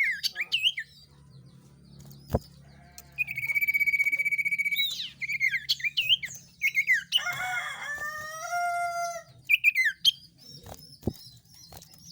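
Songbird song played as a lure recording: a fast, even trill held for about two seconds, then swooping whistled notes, a short harsh chatter and a run of falling whistles, with a click or two between phrases.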